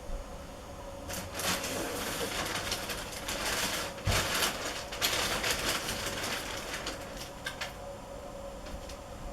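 Caged black-throated canaries stirring: a few seconds of rustling and fluttering from about a second in, fading to scattered clicks, over a faint steady hum.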